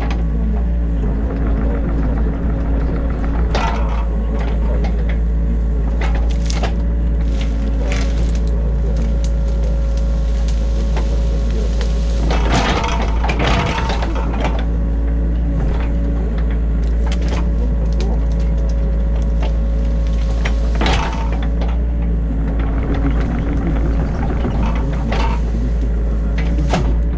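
New Holland E50.2 mini excavator running steadily, heard from inside the cab: a deep engine hum with a faint steady whine. Irregular knocks and crunches come through as the machine works the ditch, a tighter run of them about twelve to fourteen seconds in.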